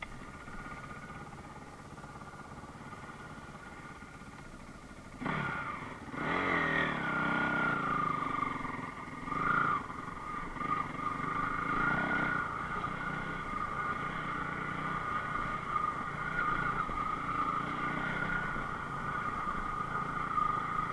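Enduro motorcycle engine, faint and steady at first, then much louder from about five seconds in, revving up and down a few times before settling into steady running.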